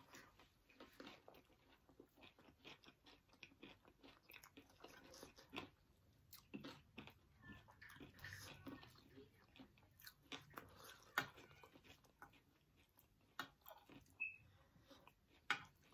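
Faint close-up chewing of crunchy chatpate and fried pakoras: soft crunches and wet mouth clicks scattered throughout, with a few sharper crunches about eleven seconds in and near the end.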